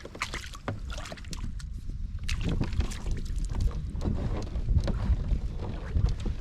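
Wind buffeting the microphone, with irregular knocks and clatter from gear being handled in a kayak.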